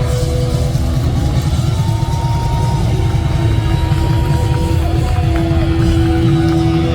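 Live rock band playing through the concert PA: a loud, dense low end under a few long held notes.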